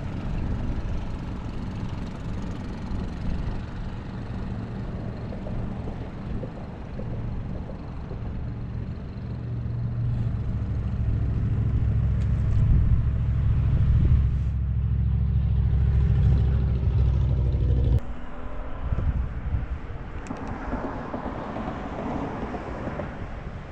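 A boat's motor running, growing louder for several seconds and then cutting off suddenly, leaving a fainter hiss.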